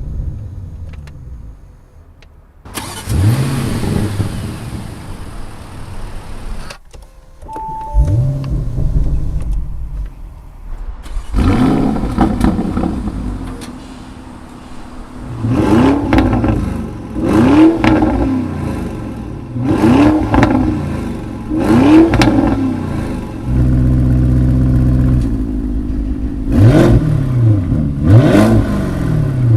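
Lamborghini Urus Performante twin-turbo V8 with an upgraded exhaust, started and then revved in place. A flare of revs comes a few seconds in and again about eight seconds in. From about the middle there is a series of sharp throttle blips roughly every two seconds, one rev held steady briefly, then more blips near the end.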